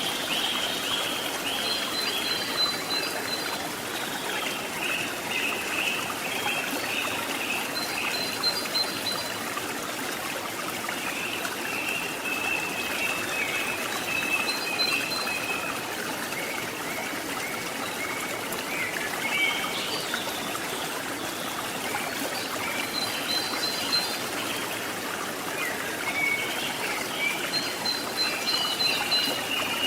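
Steady rush of flowing stream water, with repeated high-pitched chirping calls over it throughout.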